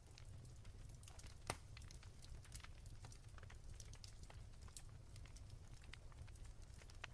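Soft crackling of a wood fire: scattered small crackles and pops, with one sharper pop about a second and a half in, over a low steady rumble.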